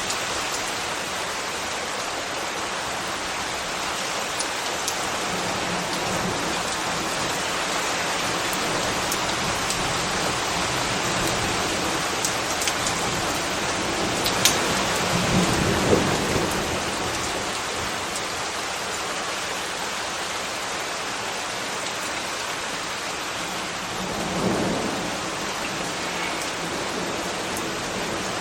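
Steady rain falling, with sharp louder drops here and there. Two brief deeper swells rise out of it, one about halfway through and one near the end.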